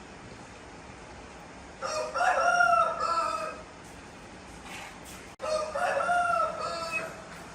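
A rooster crowing twice, two long pitched calls a few seconds apart, the second a little shorter.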